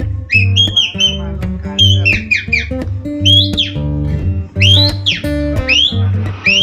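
A person mimicking the song of an oriental magpie-robin (kacer) by mouth: quick chirps and whistles sliding up and down, close together. Backing music with guitar and a steady bass plays underneath.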